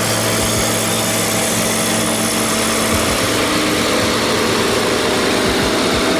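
Vehicle engine running steadily under a constant hiss.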